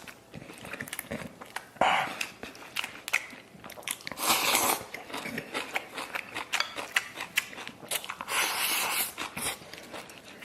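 Close-miked eating: a person biting and chewing food, with many small wet clicks and crunches, and three louder short hissing bursts about 2, 4 and 8 seconds in.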